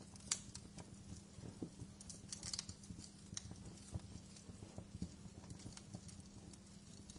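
Wood fire in a fireplace crackling, with irregular sharp pops and snaps, the loudest about a third of a second in, over a low, steady rumble of the flames.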